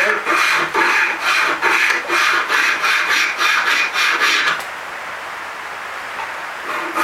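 Hand-filing a small piece of dense hardwood: rhythmic back-and-forth scraping strokes, about two a second. They stop about four and a half seconds in and start again near the end.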